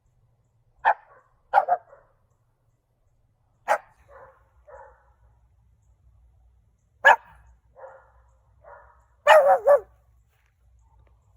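Shih Tzu puppy barking: short, sharp barks a second or two apart, the louder ones each followed by fainter, softer barks, with a quick run of loud barks about nine seconds in.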